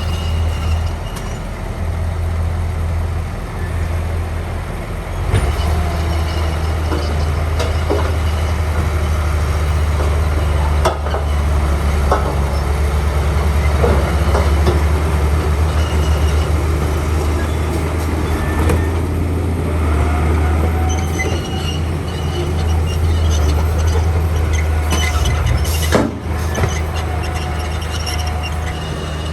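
Komatsu D41P crawler bulldozer's diesel engine running steadily under load, with its steel tracks squealing and clanking. There are sharp metallic knocks now and then, one of the loudest about 26 seconds in.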